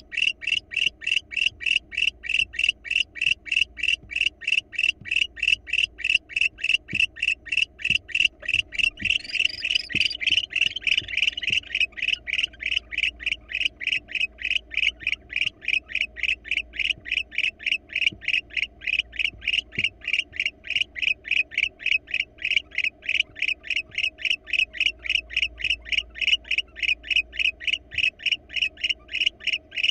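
A frog calling in a steady, rapid series of short high notes, about three a second. A raspy hiss rises over the calls around ten seconds in.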